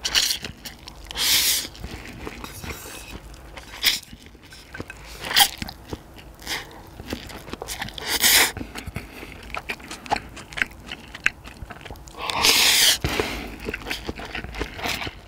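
Close-miked eating sounds: chewing and biting, with several loud noisy bursts, the longest lasting about a second a little after the middle.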